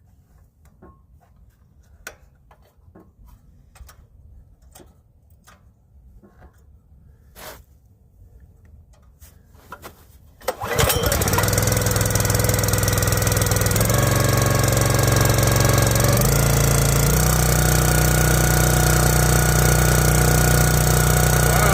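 Predator single-cylinder four-stroke gas engine on a log splitter starting after a few light clicks and knocks: it comes to life suddenly about ten seconds in and then runs steadily, its pitch stepping slightly a few seconds later.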